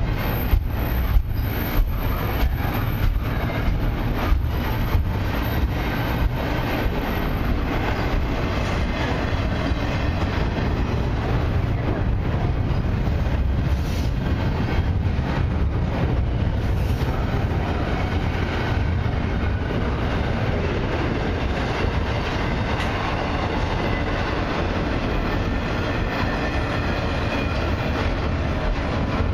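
Double-stack intermodal well cars of a long freight train rolling slowly past: a steady low rumble of the cars, with a run of sharp wheel clicks over the rails in the first several seconds.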